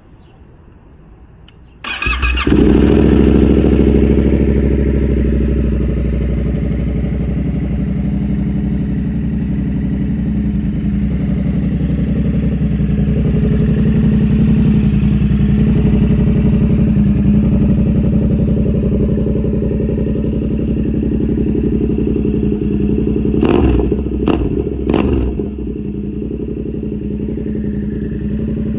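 2016 Yamaha FZ-07's 689 cc parallel-twin engine, fitted with a titanium exhaust, starting about two seconds in and then idling steadily. Three short, sharp sounds come over about a second and a half near the end.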